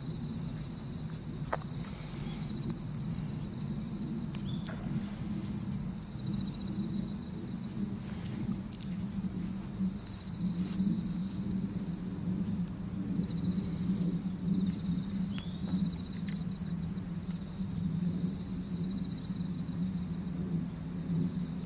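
Outdoor ambience: a steady high-pitched insect chorus, like crickets, over a steady low rumble, with a few faint ticks and short high trills.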